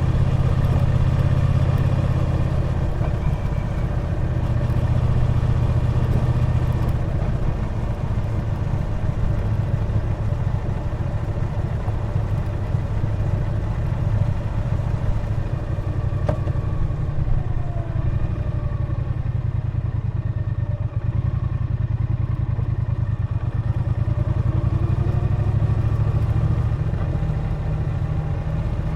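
Triumph Bonneville T120's 1200 cc parallel-twin engine running under way at a steady cruise, with a deep, even exhaust note; in the second half the pitch rises and falls a little with the throttle.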